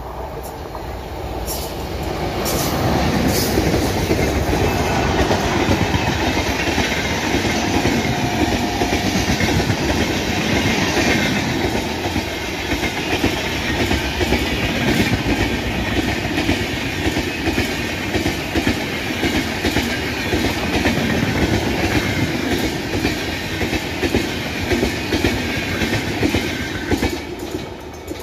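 Indian Railways express train, an electric locomotive hauling red LHB coaches, passing close by at speed: the steady noise of wheels running over the rails. It builds over the first few seconds as the train arrives and falls away near the end as the last coach goes by.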